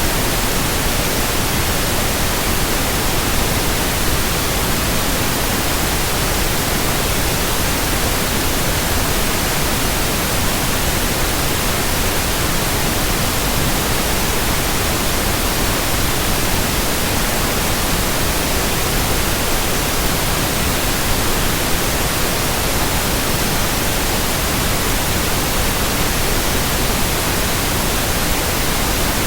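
Steady white noise: an even hiss that reaches from low to high pitches and never changes, with no rhythm or swish.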